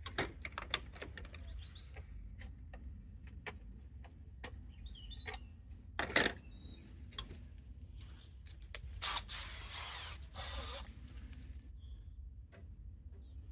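Scattered clicks and knocks of tools and metal parts being handled during work on a site dumper, with a short louder noise about six seconds in and a longer rasping noise around ten seconds in. Birds chirp faintly in the background.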